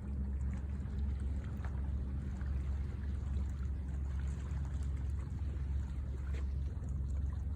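Seawater washing against the shore: a steady low rumble with faint small splashes.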